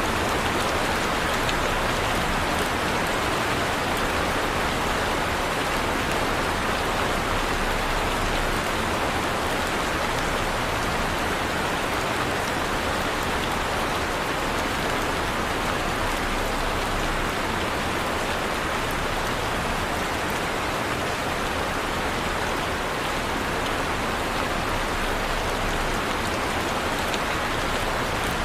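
Heavy rain falling steadily, a dense even hiss with the patter of many drops hitting a surface.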